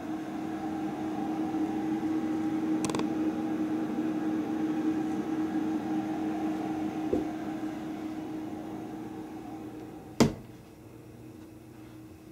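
A steady mechanical hum with a fixed pitch swells, holds, then fades away over several seconds. A single sharp click comes about ten seconds in.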